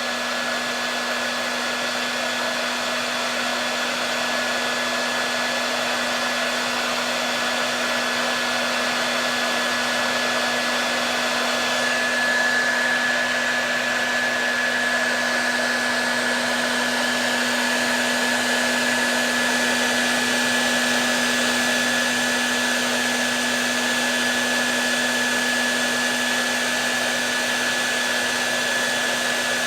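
Electric hair dryer running steadily: an even blowing rush with a low motor hum and a thin high whine that strengthens slightly about twelve seconds in.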